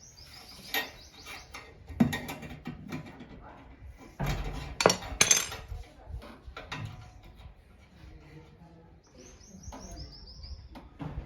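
Irregular metallic clinks and knocks of tools and metal parts being handled while a turbo whistle is fitted to a motorcycle exhaust, loudest in a cluster about halfway through. A bird chirps a quick series of high notes near the end.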